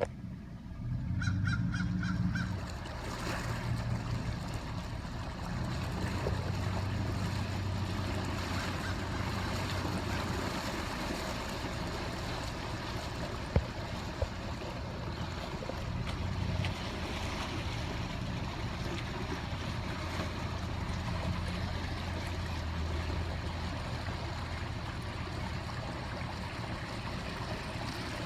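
Car engine running low and steady under a continuous hiss of water on a flooded road. Two sharp clicks come about halfway through.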